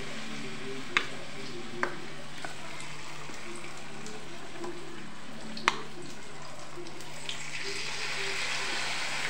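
Batter-coated potato snacks deep-frying in hot oil, a steady sizzle. A steel spoon clinks sharply against a steel bowl three times: about one second in, just under two seconds in, and near the six-second mark.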